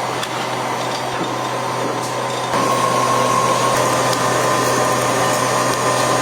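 Steady machinery noise with a constant low hum, getting louder about two and a half seconds in.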